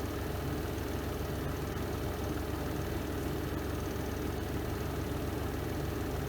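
Spin drum of a Renova semi-automatic twin-tub washing machine running a spin cycle: a steady, even motor hum and whir.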